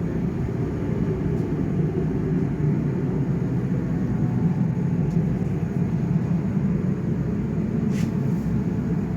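Steady low rumble of running machinery, an even noise without pitch changes, with a faint click near the end.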